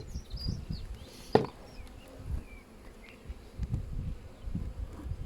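Honeybees buzzing around an open hive, with a single sharp knock about a second and a half in.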